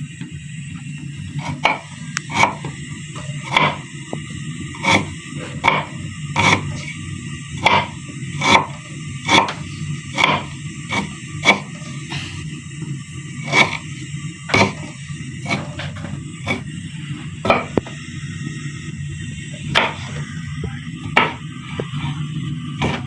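Knife chopping fresh ginger into small pieces: sharp chops at an uneven pace, about one every half second to a second, over a steady low hum.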